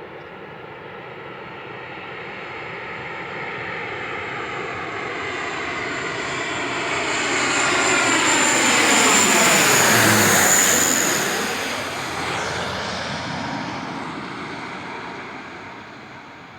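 Alenia C-27J Spartan's twin turboprops passing by on landing approach: the sound swells to its loudest about ten seconds in, the pitch drops as the aircraft passes, then fades away.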